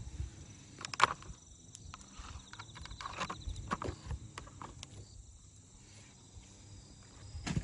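Small wood fire crackling in a compact wood stove, with scattered pops and snaps, the sharpest about a second in and a quicker run of them around three to four seconds in.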